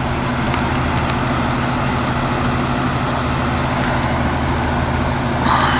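Vehicle engine running steadily at idle: a low, even hum with steady tones. A brief higher, louder noise comes near the end.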